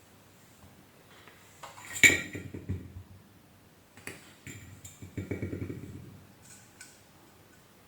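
Small metal parts and tools clinking and rattling while a vacuum cleaner motor is taken apart. There is a sharp ringing clink about two seconds in, a second bout of rattling a few seconds later, and a few light clicks near the end.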